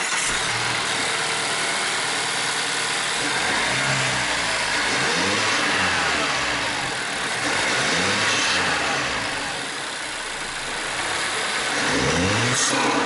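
2022 Mazda3 Turbo's turbocharged 2.5-litre four-cylinder running just after start-up, fitted with a newly installed CorkSport intake. It is revved up and let back down about three times, the pitch rising and falling each time, with a short hiss near the end as the revs drop.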